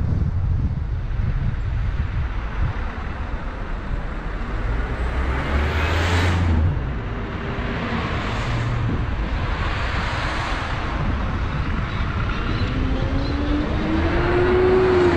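Car driving on the road: steady low engine and tyre rumble with wind noise. Rushes of noise swell and fade about six, eight and ten seconds in, like vehicles going by. Near the end an engine note rises in pitch as it speeds up.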